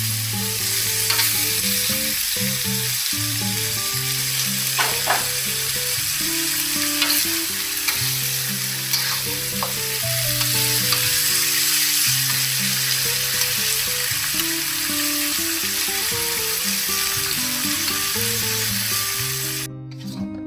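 Durian flowers and meat stir-frying in a hot wok: a steady sizzle, with the spatula scraping and knocking against the wok every few seconds. Soft background music plays underneath, and the sizzle cuts off just before the end.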